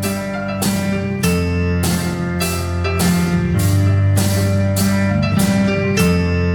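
Live band playing with no vocals: a drum kit keeps a steady beat with cymbal strokes about every 0.6 s over sustained electric bass notes, with guitar and keyboard chords.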